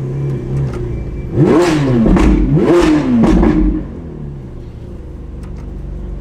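A naturally aspirated Ferrari engine blipped twice in quick succession, the pitch rising and falling each time, then settling back to idle.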